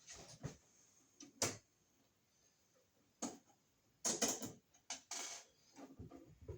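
Short clicks and knocks of a wall outlet and its stiff copper wires being handled and pushed into an electrical box, in scattered single taps with a quick cluster about four to five seconds in.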